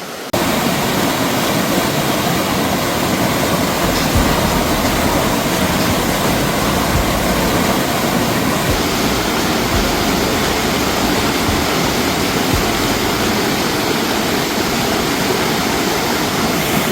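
Waterfall: a loud, steady rush of falling water that starts suddenly just after the opening, with a few low thumps.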